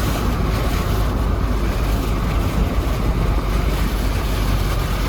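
Steady road and engine noise heard from inside a moving car, a constant low rumble with a broad hiss of tyres and wind.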